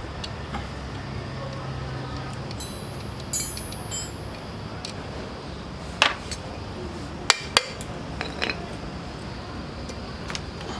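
Metal parts and tools clinking and knocking: brief ringing clinks, then a few sharp knocks about six and seven and a half seconds in, over a steady low hum.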